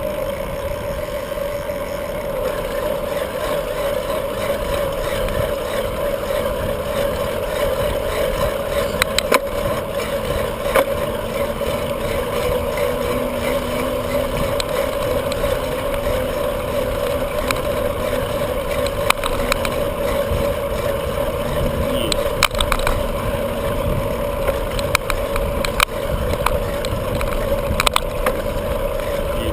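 Riding noise from a bicycle on a road: wind buffeting the camera microphone and tyres rolling, with scattered clicks and rattles.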